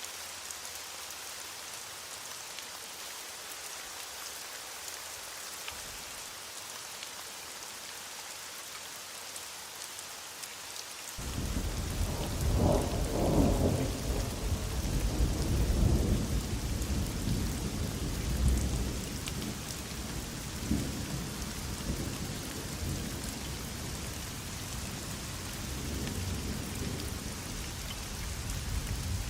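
Steady heavy rain falling. About eleven seconds in, a thunder rumble starts suddenly, is loudest over the next few seconds, then rolls on more quietly under the rain.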